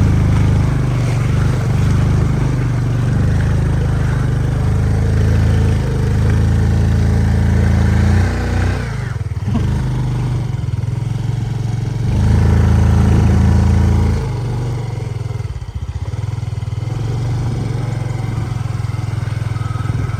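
Yamaha PG-1 small single-cylinder motorbike engine running on the road. Its level and pitch fall off about eight seconds in, pick up again around twelve seconds, then ease back as the throttle is worked.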